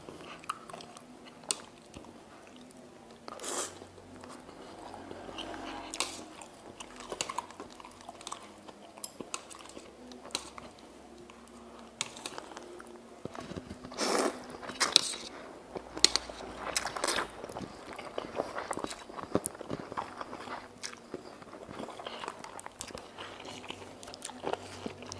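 A person chewing and biting on mie ayam (chicken noodles), with sharp clicks scattered throughout. The loudest bites come about 14 to 17 seconds in.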